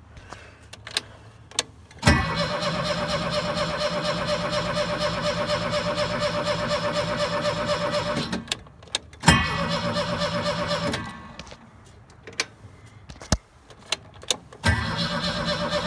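Starter cranking the 1970s Bobcat 632's 1.9-litre Ford Pinto four-cylinder engine on a cold start, in three tries of about six seconds, two seconds, and a last one starting near the end, with a steady starter whine under even rhythmic pulses. The engine does not catch, and there are a few clicks between tries.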